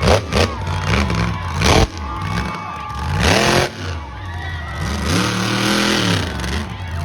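Monster truck engine revving hard, climbing in pitch about three seconds in and again about five seconds in, over a cheering crowd.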